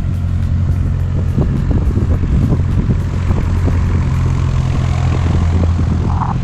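Propeller airplane engine running steadily: a loud, even low drone.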